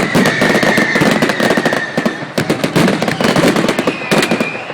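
Fireworks display going off: a dense, rapid crackle of many small bangs, with a steady high whistle over the first two seconds and another high whistle near the end.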